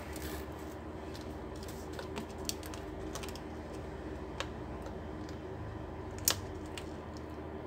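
Scattered light clicks and taps of laptop parts being handled while the screen is fitted back into the lid, with one sharper click about six seconds in, over a steady low hum.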